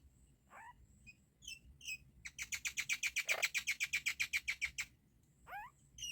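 Baby myna birds calling in the nest at feeding time. A few rising squeaks and chirps come first, then a rapid chatter of about ten notes a second lasting some two and a half seconds, and another rising squeak near the end.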